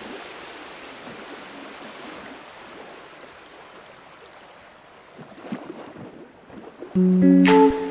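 Steady rushing water like a flowing stream, slowly fading; about seven seconds in, louder music with sharp plucked notes comes in.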